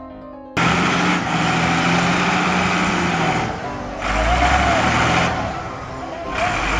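Piano music cuts off abruptly about half a second in, giving way to a loud truck engine running with heavy rushing noise that swells and eases in stretches of a second or two.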